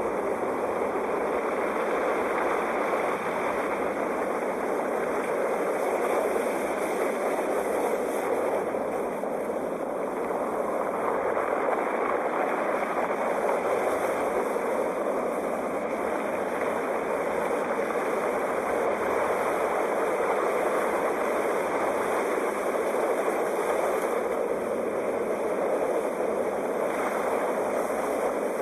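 Sea waves washing in a steady, continuous rush with slow, gentle swells in loudness.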